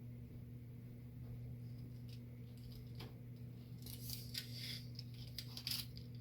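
Light clicks and scrapes of small hard parts or a tool being handled, thickest in the second half, over a steady low hum.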